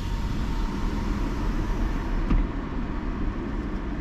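Steady hiss and low rumble of an idling car heard with its side window open, the outside noise coming straight in, with a faint steady tone and a single click about two seconds in.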